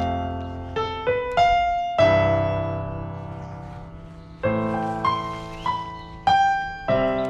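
Background piano music: slow chords struck one after another, each left to ring and fade, with a long held chord in the middle.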